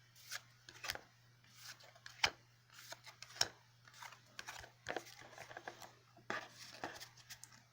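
Yu-Gi-Oh! trading cards being handled and flipped through: scattered light clicks, slides and rustles of card stock, with a sharper snap a little over two seconds in. A faint low hum runs underneath.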